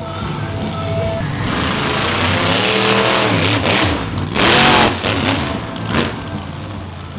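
Monster truck engine revving hard, its pitch rising and falling. The loudest blast comes about four and a half seconds in.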